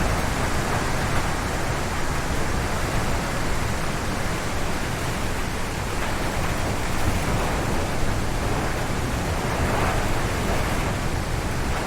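Strong gusty wind rushing through forest trees, a dense steady roar that swells and eases slightly in waves, with heavy low rumble from wind buffeting the microphone.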